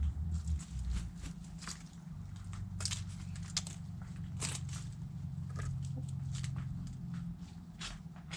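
Backyard chickens pecking at food scraps: scattered sharp pecks and crunches over a low steady rumble.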